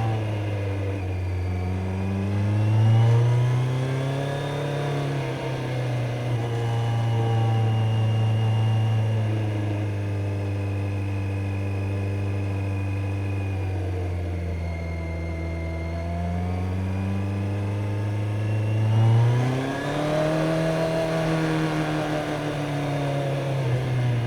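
Kawasaki Z900 inline-four motorcycle engine under way, heard from on board: the revs climb about two seconds in, hold steady for several seconds, drop back, then climb again near the end.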